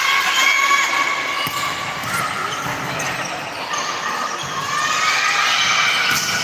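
Indoor volleyball play: several sharp thuds of the ball being hit and bouncing on the court, over shouting voices in an echoing sports hall.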